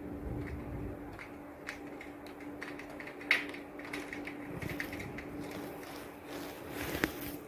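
Rain recorded outdoors: a steady patter with scattered drops ticking on a hard surface, including two sharper taps about three and seven seconds in, over a faint steady hum.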